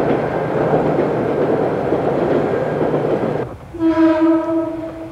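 Train running noise for about three seconds, then a single train horn blast lasting about a second: the railway channel's sound logo.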